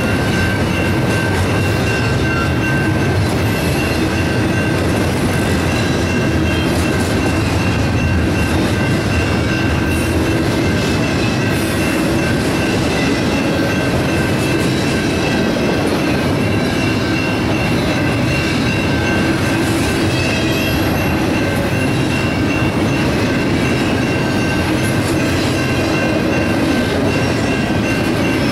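Loaded double-stack intermodal railcars rolling steadily past, wheels rumbling and clattering over the rails, while the crossing's electronic bells keep ringing.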